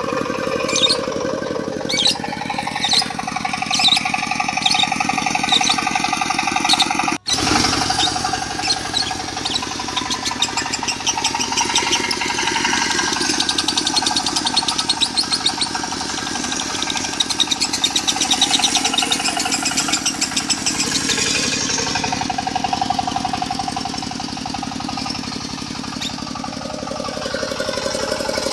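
Lovebird singing the long, rapid 'konslet' chatter, layered over a diesel engine running steadily. The bird gives separate sharp chirps for the first seven seconds. After a brief dropout it breaks into a fast, continuous chattering trill.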